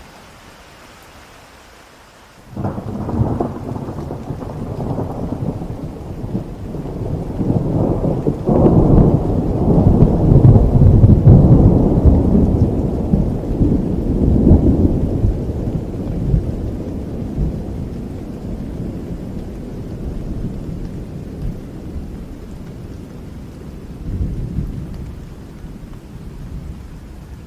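A long roll of thunder over steady rain. It breaks in suddenly a couple of seconds in, swells to its loudest around the middle with a sharper crack, then slowly rumbles away.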